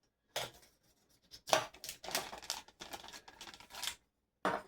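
Packaging of a whiskey gift set being handled: a run of scraping, tearing-like rustles, then one short sharp scrape near the end.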